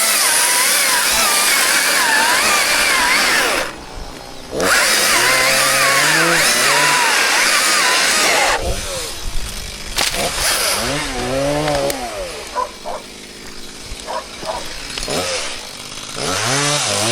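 Chainsaw at full throttle cutting wood, with a short drop in revs a little under 4 s in. From about 9 s it runs quieter, its revs rising and falling, then goes back to full throttle near the end.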